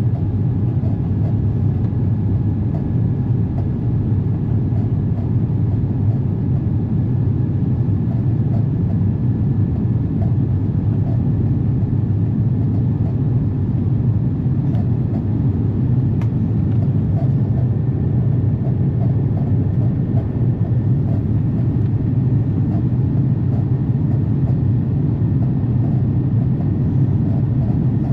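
Steady jet airliner cabin noise heard from a window seat: a low, even drone of engines and airflow with a faint steady high tone above it.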